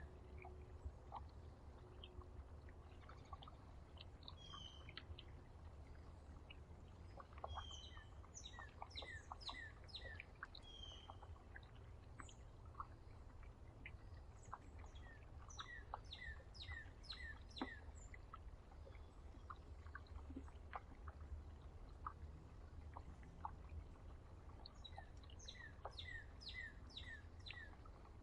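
Small songbirds calling at a feeder: a few runs of quick, high, downward-sliding chirps, with scattered single calls in between. A faint steady low rumble runs underneath.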